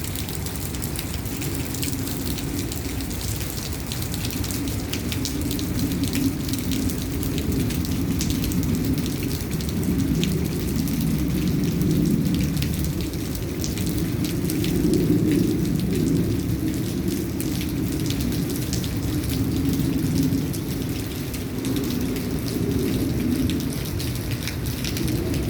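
Steady rain, many small drop clicks over a louder, uneven low rumble.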